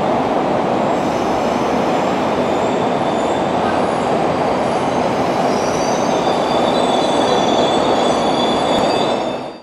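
Steady running noise of a passenger train heard from aboard as it rolls along, with faint high-pitched wheel squeal tones joining in about three seconds in.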